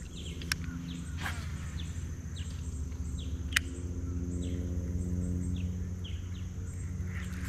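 A bird repeating short falling chirps over a steady low hum, with two sharp clicks, one about half a second in and one a little past three seconds.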